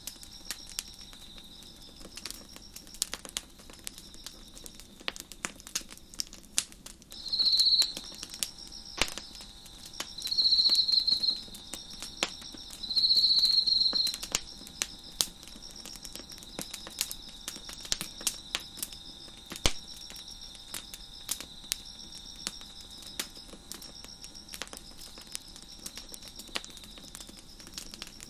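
Wood fire crackling with frequent sharp pops, while crickets chirp steadily in the background. Three louder, shrill insect trills stand out about a third of the way in.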